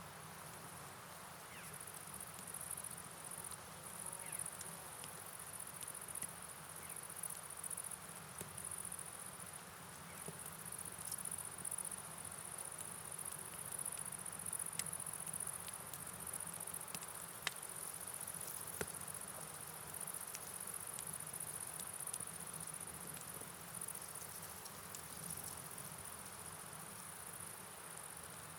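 Night ambience of steady rain and flowing river water, with a steady high-pitched chorus like insects over it. A few sharp clicks or crackles stand out here and there.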